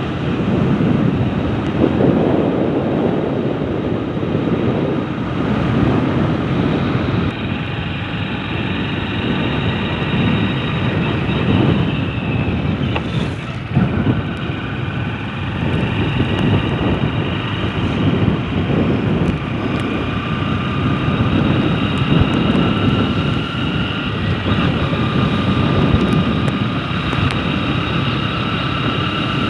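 Wind buffeting the microphone in a low, fluctuating rumble, with several steady high-pitched tones running above it.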